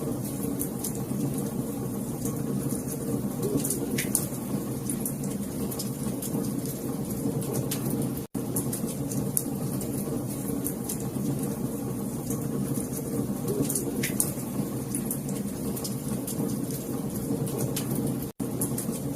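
Wood fire burning in a fireplace: a steady low rumble of flame with frequent sharp crackles and pops. The sound cuts out for a split second about eight seconds in and again near the end.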